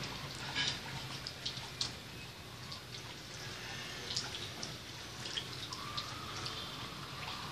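Irregular light ticks and trickling, like water dripping, over a low steady hum: refrigerant gurgling through the lines of a running refrigerator during R134a charging. A faint steady whistle-like tone comes in near the end.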